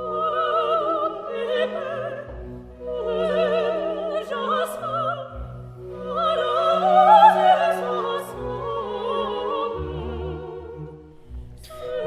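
Operatic singing with wide vibrato over an orchestral accompaniment, in three long phrases.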